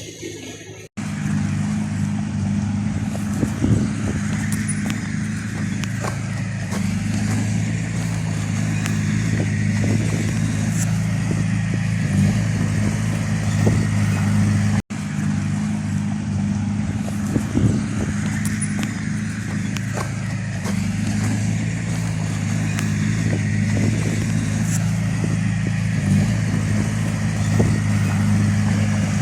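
Heavy diesel engine of earthmoving machinery running steadily under work, with a few metallic knocks and clanks. The sound drops out for an instant twice.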